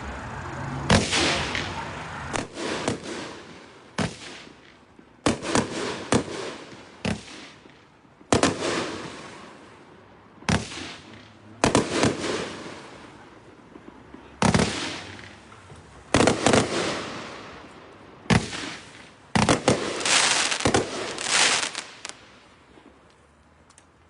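Vikings Vengeance firework cake firing its shots one after another, some in quick pairs. Each is a sharp bang that trails off over a second or two. The shots stop about two seconds before the end.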